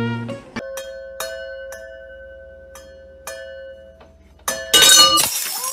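A few sparse, ringing bell-like notes. Then, about four and a half seconds in, a loud crash of wine glasses shattering.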